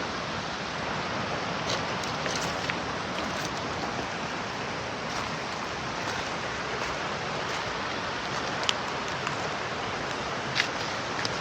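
Mountain stream rushing steadily, with a few brief sharp ticks over it.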